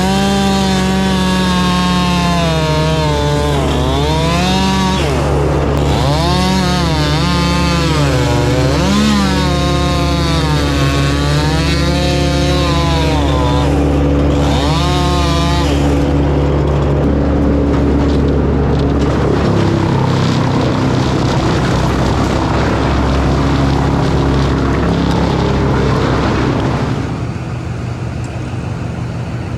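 Two-stroke chainsaw cutting through a log, its engine pitch repeatedly dipping and recovering as the chain loads in the wood for about the first sixteen seconds. After that a steadier engine noise with a low steady hum underneath, which drops off near the end.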